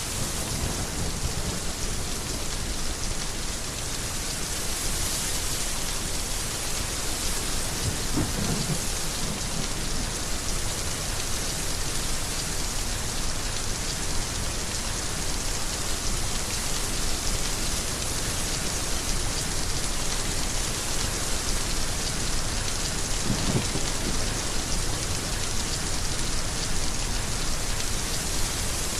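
Heavy rain falling in a steady, dense hiss. Two brief low rumbles of thunder come through the rain, about eight seconds in and again near the end.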